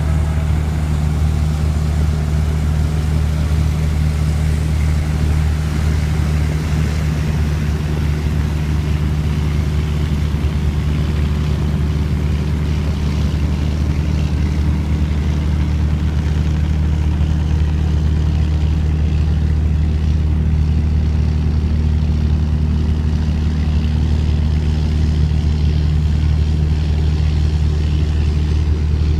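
A boat's engine running with a steady low drone, unchanging throughout.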